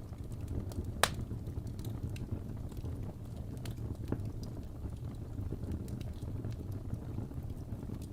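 Wood fire in a fireplace burning with a low steady rumble of flame and scattered small crackles of burning logs, with one sharp loud pop about a second in.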